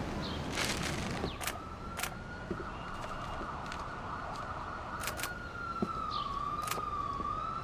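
A siren heard from afar, a single steady high wail that sags and wavers briefly near the end, over faint background noise with a few light clicks.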